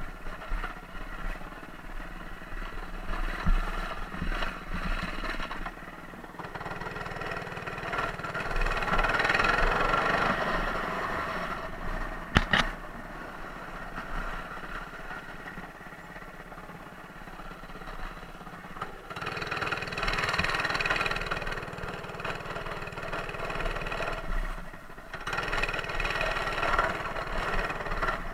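Mini bike's small engine running, growing louder and fading several times, with a sharp click about halfway through.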